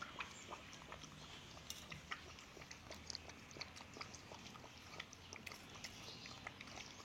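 A young pet drinking water, a quick, irregular run of small wet clicks and laps.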